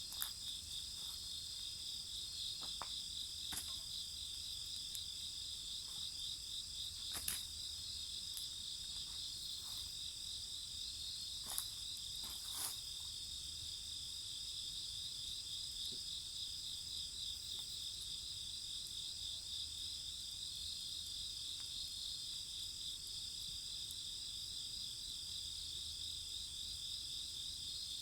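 Crickets and other insects trilling steadily in several high-pitched bands, one of them a fast pulsing trill. Over it a burning wood fire gives a few sharp pops, the loudest about seven and twelve seconds in.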